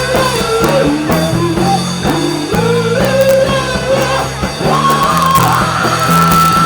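Rock music: a band playing guitars over bass and drum kit, with a wavering melodic line and a long held high note near the end.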